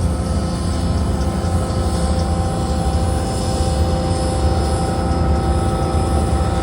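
Train rolling past: a heavy steady rumble with thin, steady wheel squeal over it.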